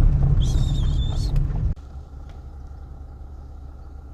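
Road and engine rumble of a moving vehicle, heard from inside, which drops suddenly to a quieter steady low hum a little under two seconds in. A brief high warbling whistle sounds in the first second.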